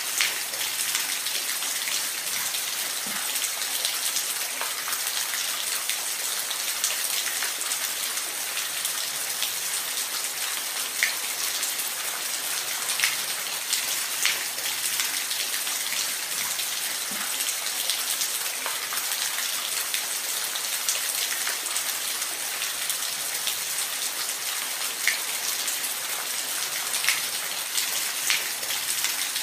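Steady rain falling, an even hiss with scattered louder drop clicks.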